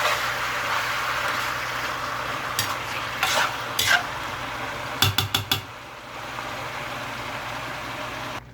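Chicken frying and sizzling in a pan as it is stirred, a utensil knocking against the pan a few times and then in a quick run of knocks about five seconds in. The sizzle then quietens and cuts off sharply near the end.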